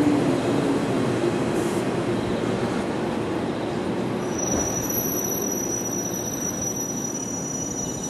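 A 485-series limited-express electric train running along the platform, with a wheel and rail rumble that fades as its last car passes about four seconds in and the train pulls away. A thin, steady high-pitched whine runs through the second half.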